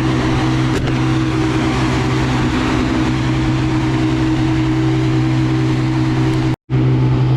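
Car engine idling steadily, a low even hum that does not change in pitch. The sound drops out completely for a split second near the end.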